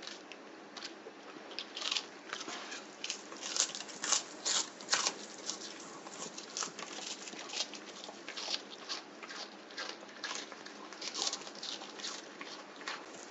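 Fresh bok choy being bitten and torn apart by a pet: quick, irregular crisp crunches and crackles of leaf and stalk.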